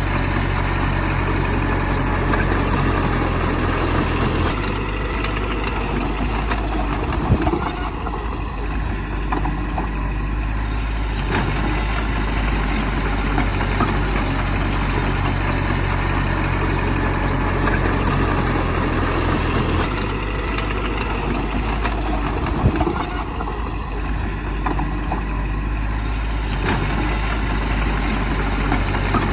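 Bulldozer's heavy diesel engine running steadily. Its note drops twice, about a sixth of the way in and again past the middle, and each drop is followed a few seconds later by a single sharp knock.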